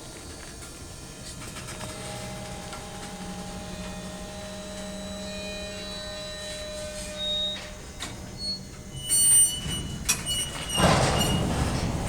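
Freight train led by a GE CW44AH diesel locomotive getting under way: a steady diesel engine drone, then from about nine seconds in, clanks and high squealing from the wheels, and a louder rumble near the end as the train rolls.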